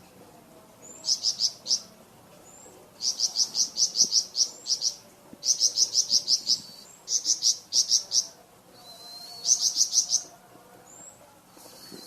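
Flamboyan songbird singing in bursts of rapid, evenly repeated high notes, about eight to ten a second, each burst lasting about a second, with short rising whistles between the bursts.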